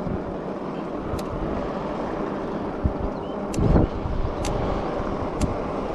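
Riding noise of a fat-tire e-bike on asphalt: a steady rush of tyres and wind, with a louder low buffet of wind on the microphone about three and a half seconds in.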